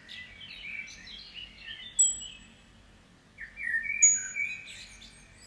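Forest birds chirping in two quick runs of twittering song with a short pause about three seconds in, and a brief, very high thin whistle twice.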